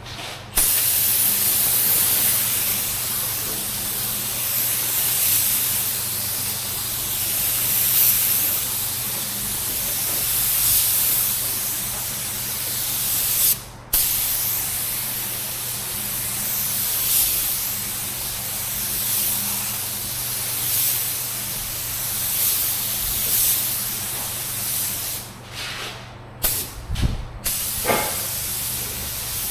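Automotive paint spray gun hissing steadily as it sprays colour onto a car body. The trigger is released briefly about halfway through and a few times near the end.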